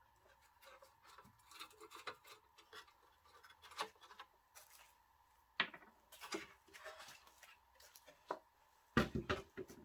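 Faint scattered clicks, scrapes and small knocks of hand-tool work: a flat screwdriver turning out screws and parts being handled while the small locomotive is torn down. A few sharper knocks stand out, with a louder cluster near the end.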